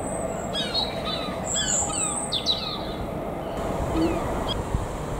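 Small birds chirping: a quick run of short, downward-sliding chirps, busiest in the first half and thinning out later. Beneath them runs a steady low rumble from an approaching Class 43 HST.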